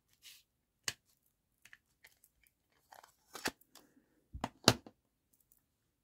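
Craft materials being handled at a worktable: scattered paper rustles, small clicks and taps, with a sharp knock about four and a half seconds in, as a tool is put down or picked up.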